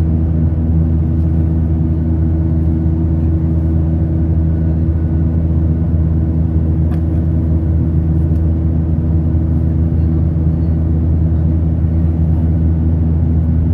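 Aeroplane cabin noise: a steady, loud engine and airflow drone with several low hums layered together, heard from inside the passenger cabin.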